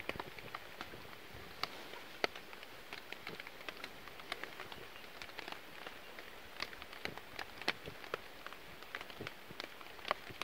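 Rain pattering on a tarp shelter: a soft steady hiss with dense, irregular drop ticks.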